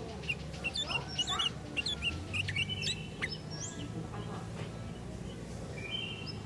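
Sooty-headed bulbuls (kutilang) calling: a busy string of short chirps and quick upward-sweeping whistled notes, several overlapping.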